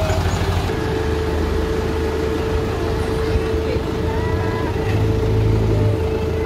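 Off-road 4x4's engine running steadily as the vehicle moves slowly, with a steady whine joining about a second in. The engine note swells a little around five seconds in.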